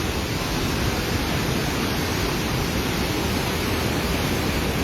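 River in flood pouring through a barrage, a steady rush of water noise with no let-up.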